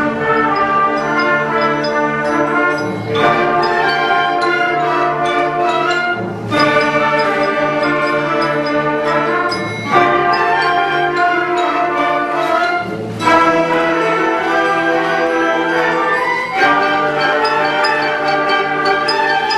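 School concert band playing: sustained brass-heavy chords that change about every three seconds, each new chord starting with a fresh attack.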